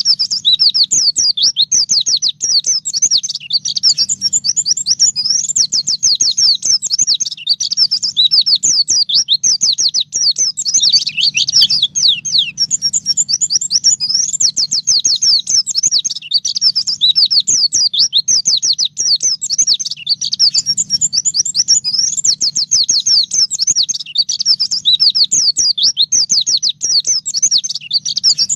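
White-eye (pleci) singing a continuous run of rapid, high twittering notes that follow one another without a pause, with a faint low hum beneath.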